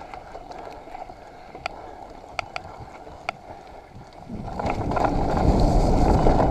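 Mountain bike rolling over a wet, rutted trail: a steady hiss of tyre noise with a few sharp clicks and knocks from the bike. About four seconds in, a much louder rumble of wind on the microphone and tyre noise takes over.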